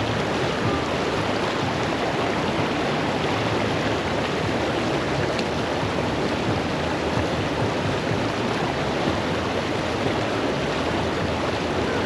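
River water rushing steadily over rocks in a fast current.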